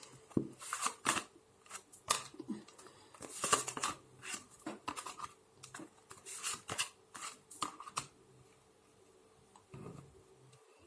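Tarot cards being handled and shuffled: a quick run of crisp papery swishes and flicks that stops about eight seconds in.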